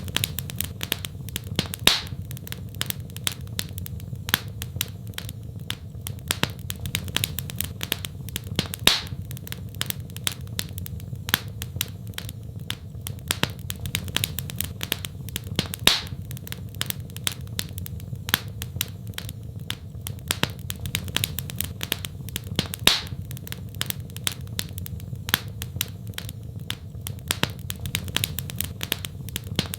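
Fireplace fire crackling: a dense run of small crackles, with sharper, louder pops every few seconds, over a steady low rumble.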